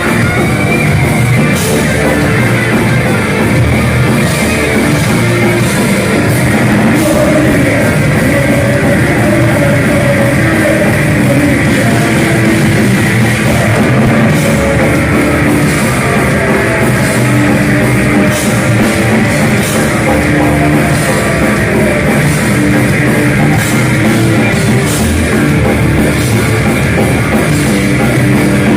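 Live heavy metal band playing loud, with distorted electric guitars and a drum kit. The sound is dense and unbroken throughout.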